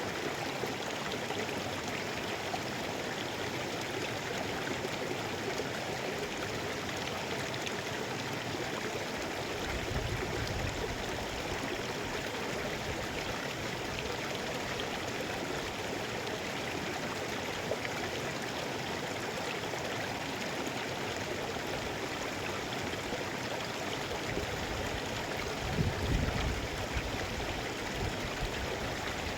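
Mountain river rushing steadily over rocks, a constant even roar of flowing water. A deeper rumble swells briefly about ten seconds in and again near the end.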